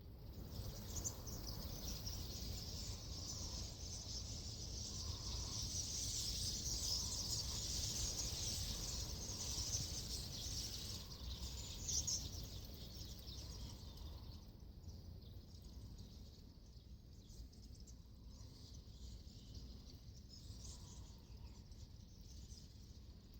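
A flock of purple martins calling together in a dense, high chatter that swells to its loudest in the middle and thins out over the last third, over a steady low rumble.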